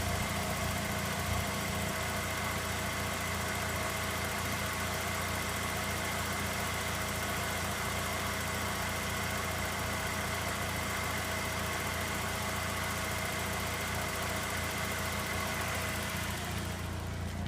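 Nissan CA20E 2.0 litre four-cylinder engine idling steadily, with a fresh timing belt and a new tensioner that runs silent; the only ticking left is the fuel injectors.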